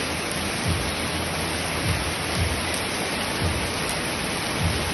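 Heavy rain pouring down steadily as a dense, even hiss, with short low thumps about once a second.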